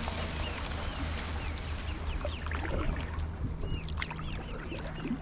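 Paddle dipping and dripping as a stand-up paddleboard moves through canal water, with a steady low rumble underneath. Short repeated bird chirps come in from about halfway through.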